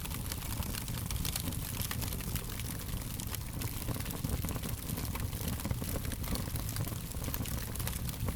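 Fire crackling: many small, irregular pops and snaps over a steady low rumble.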